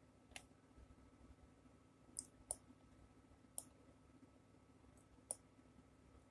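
Computer mouse clicking, about six sharp single clicks spread unevenly over several seconds, over a faint steady hum.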